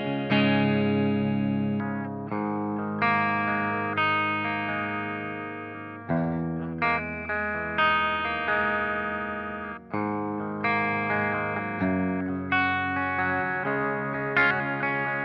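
Covenant Innovator I-STD electric guitar played amplified: chords and notes picked and left to ring, a new one struck about every second and dying away before the next.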